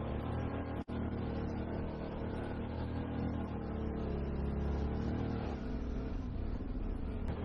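Vehicle engine running steadily under load, with a brief dropout in the sound about a second in.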